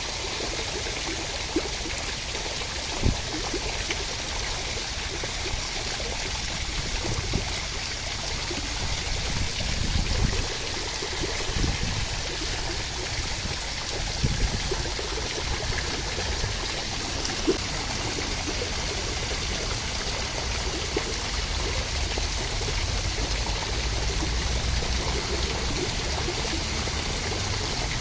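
Steady rushing water, an even hiss with a few short louder splashes now and then.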